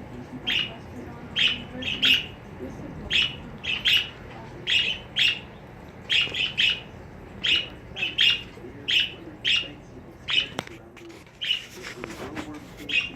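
A bird chirping over and over in short, sharp chirps, about two a second.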